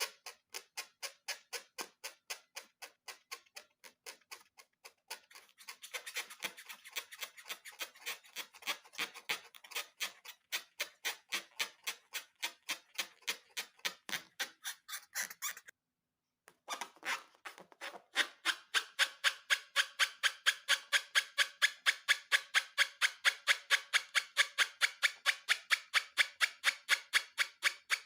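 Steady, rapid ticking, about four clicks a second, like a clock-tick beat in background music. It breaks off briefly about 16 seconds in and comes back louder a couple of seconds later.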